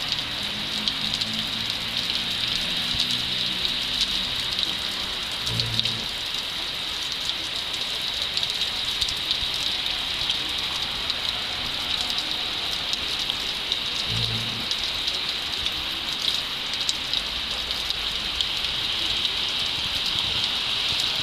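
Steady rain with a dense patter of drops. A car engine runs at low revs in the first few seconds, and a low rumble comes and goes briefly twice later on.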